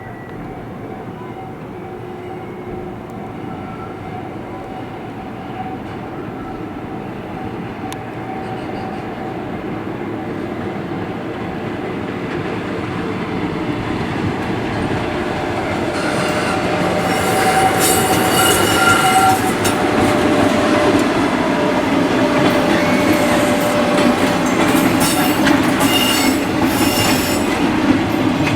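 Freight train running in on the rails, its sound building steadily as it nears. From about halfway in, the wheels squeal with high, shifting tones over the clatter of the wheels on the track.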